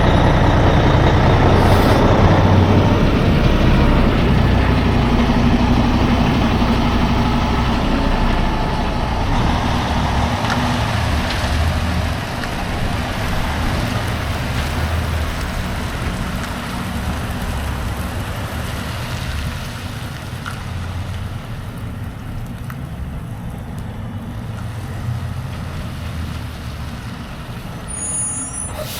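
Semi-truck's diesel engine running with steady low rumble and road or air noise as the rig gets under way, slowly getting quieter.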